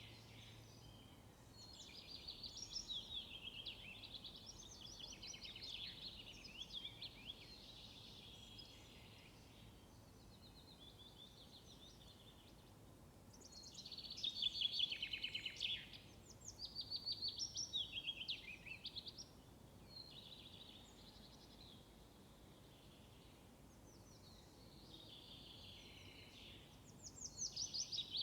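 Songbirds singing: high-pitched phrases of quick repeated notes, each a few seconds long, coming in bouts with pauses between, over a faint steady background hiss.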